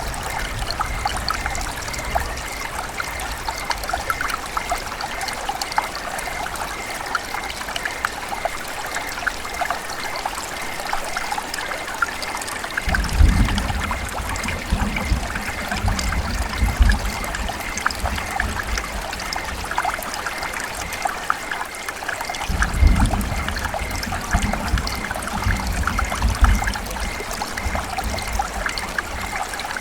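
River water running and trickling steadily, with many small splashes, over two spells of low rumbling, one near the middle and one about ten seconds later.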